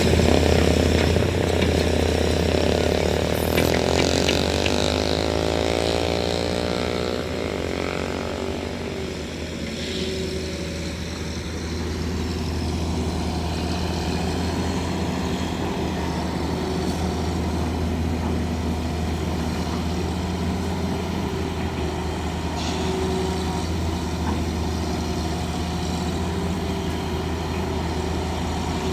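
Heavy diesel engine of construction machinery running steadily with a low drone, slightly louder in the first several seconds.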